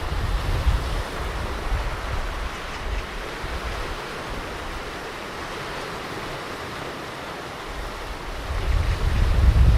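Ocean surf washing steadily onto a beach, an even hiss of breaking water, with a low rumble that swells again near the end.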